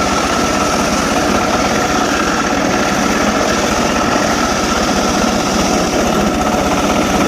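Homemade circular saw rig running steadily, a continuous machine drone with a steady whine over it.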